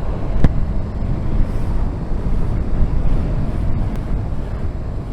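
Honda VFR1200F motorcycle riding in traffic, with wind buffeting the onboard microphone over a low rumble. A sharp click sounds about half a second in.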